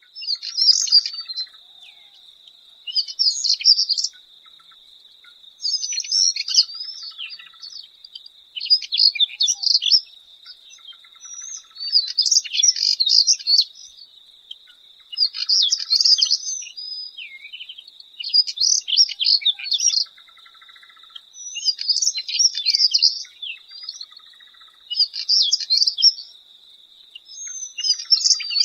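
A chat (Saxicola) singing: about ten short, scratchy, twittering song phrases, each about a second long, repeated every few seconds. A steady high, unbroken tone runs underneath.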